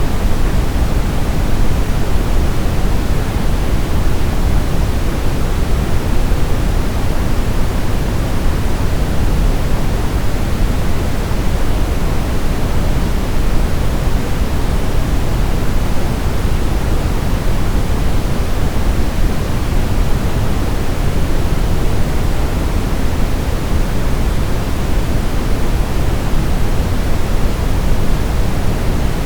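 Steady brown noise: an even, deep rushing hiss, heaviest in the bass and falling away toward the treble, with no changes.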